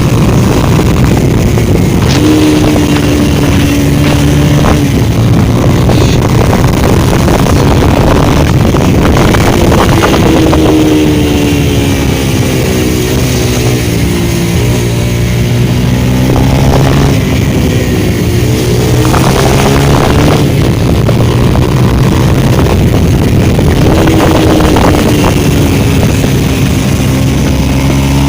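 Motorcycle engine running at highway speed, its pitch sagging and climbing again a few times as the throttle is eased and opened, with wind noise on the microphone.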